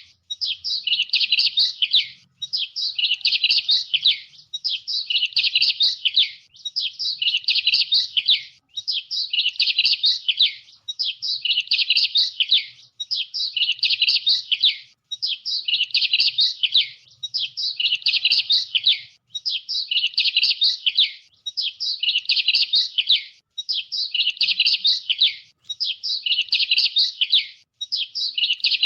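Songbird chirping and twittering in a quick, high phrase that repeats almost identically about every two seconds, with a short break between phrases.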